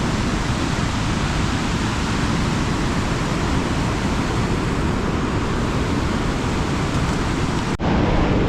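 Chilnualna Falls pounding down, a steady loud rush of falling water. It breaks off for an instant near the end and comes back a little louder.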